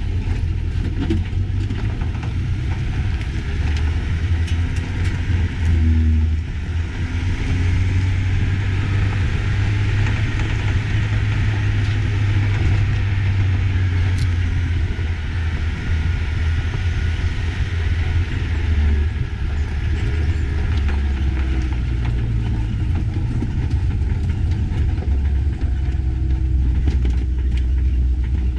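Motor vehicle driving, a steady low engine and road rumble with scattered small clicks and knocks.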